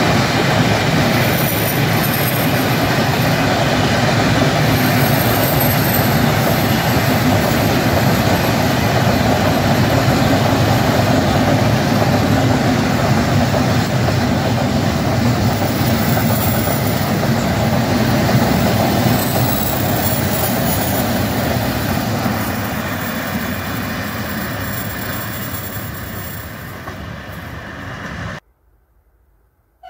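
Train running past on the track, wheels on rails with a high wheel squeal now and then; the sound fades away over the last several seconds and then cuts off abruptly near the end.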